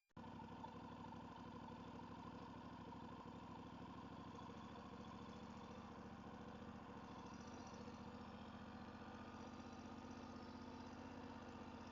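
Faint motorcycle engine running steadily at an even speed.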